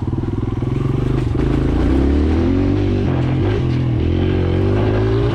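Kawasaki KLX140L dirt bike's single-cylinder four-stroke engine running under throttle while being ridden. Its pitch climbs about a second and a half in, then rises and falls with the throttle.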